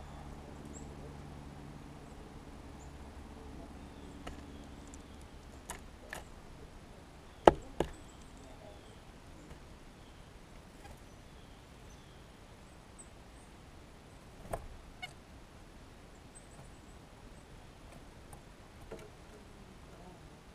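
Scattered sharp taps and knocks, the loudest a double knock about seven and a half seconds in and another pair about halfway through, with a few faint high chirps: small songbirds landing on and pecking at a window bird feeder.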